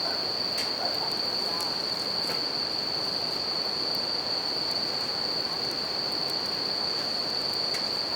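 Bell crickets (suzumushi) singing in one steady high unbroken tone over the even rush of a river, with scattered small crackles from a campfire.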